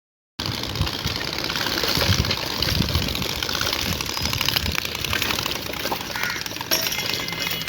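Engine of a motorcycle or scooter fitted with an aftermarket exhaust, running with an uneven low rumble.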